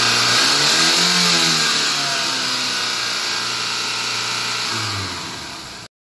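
Toyota 5S-FE 2.2-litre inline-four engine revved to about 5000 rpm, then the revs falling steadily back toward idle over several seconds. The sound cuts off suddenly near the end.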